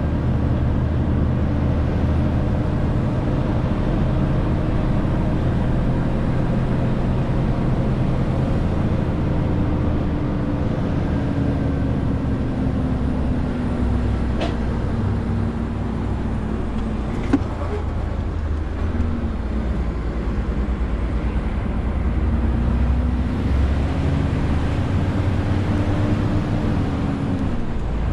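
Renault T520 truck's six-cylinder diesel engine running under load, its pitch slowly sinking through the middle and climbing again later. A single sharp click sounds a little past halfway.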